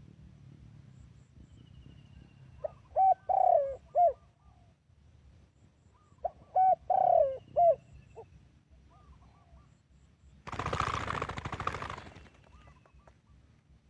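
Spotted dove cooing: two phrases of short coos around a longer, rolling middle note, a few seconds apart. Near the end comes a loud rustling burst under two seconds long.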